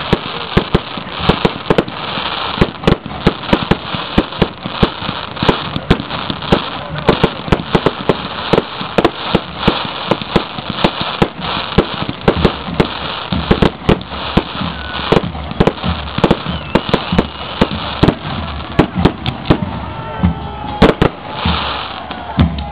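Fireworks going off in rapid succession, several sharp bangs and cracks a second, without letup.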